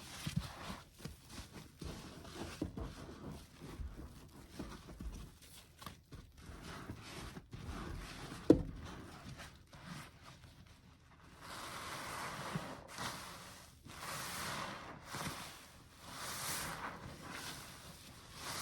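Soapy foam sponges being handled and squeezed by hand: soft irregular squishes and knocks with one sharp knock about halfway through, then from about two-thirds of the way in a run of wet, hissing squeezes, about one a second.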